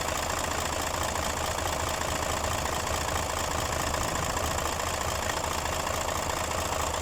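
Mercedes-Benz Actros 2040 truck's diesel engine idling steadily with a constant low hum.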